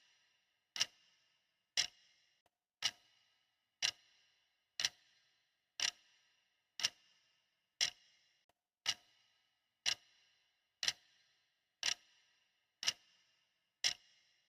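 Clock ticking steadily, one sharp tick each second with silence between, counting off the seconds of a countdown timer.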